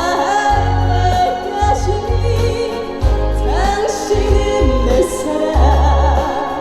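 A trot song performed live: a female singer's voice over a band backing track with a heavy bass beat. She holds long notes with a wide vibrato near the end.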